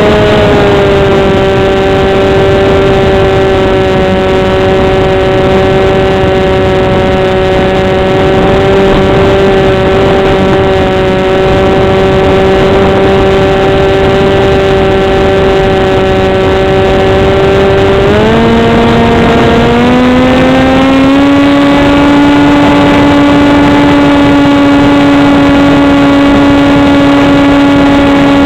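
RC plane's motor and propeller running steadily, heard up close from a camera mounted on the foam wing, over a rush of air. The pitch shifts in two steps about 18 and 21 seconds in, then holds steady again.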